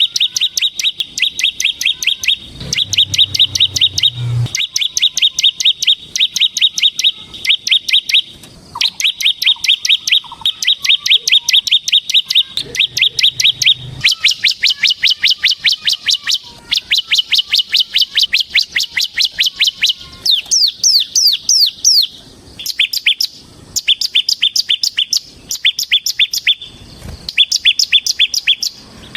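A ciblek semi, a bar-winged prinia, singing its rapid 'ngebren' song: long runs of fast, evenly repeated high chirps broken by short pauses. The notes turn into quick downward-gliding chirps about two-thirds of the way through. A brief low hum sounds underneath twice.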